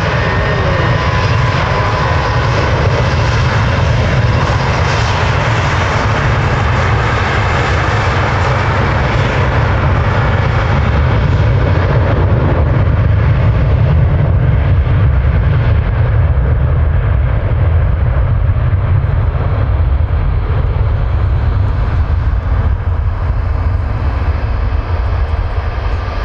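Jet airliner engines running at high power, a loud steady rumble. The higher hiss fades about halfway through while the deep rumble carries on.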